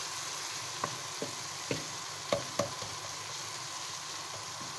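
Onion, tomato and spice masala sizzling in oil in a kadai, stirred with a wooden spatula that knocks and scrapes against the pan a few times in the first half. This is the bhuna stage, the masala being fried until its aroma rises.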